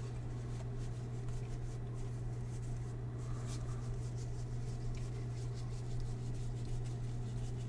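Baseball trading cards being handled, rubbing and scraping faintly as they slide against each other, over a steady low hum.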